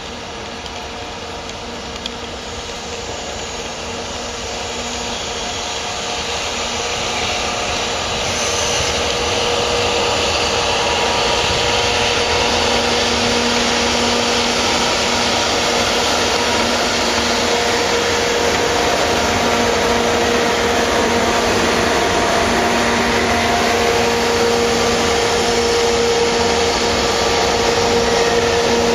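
Freight train passing on the line: a steady rushing rumble that grows louder over the first ten seconds or so and then holds, with a steady hum of a few tones running under it.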